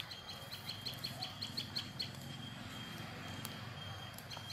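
A bird calling: a quick, even run of short high notes, about five a second, that stops about two seconds in, over a steady thin high-pitched tone.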